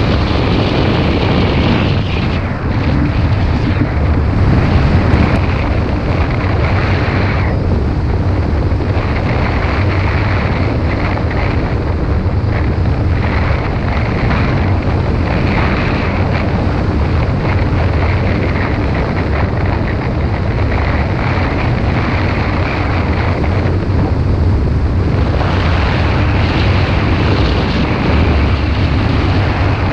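Auxiliary engine of a motorized hang glider running steadily in flight, with wind rushing over the microphone that swells and drops every few seconds.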